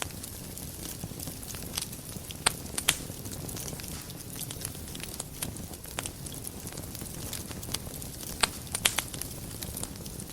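Wood fire burning in a fireplace: a steady low rumble with irregular sharp crackles and pops, a few louder pops about two and a half seconds in and again around eight and a half to nine seconds.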